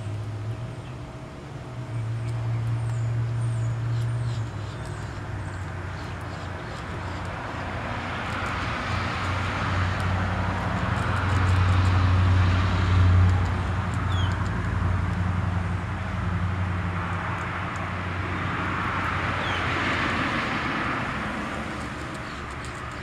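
Road traffic: a steady low engine hum with two vehicles going past, each a slow swell of tyre and engine noise peaking about halfway through and again near the end. A few faint, high bird chirps sound over it.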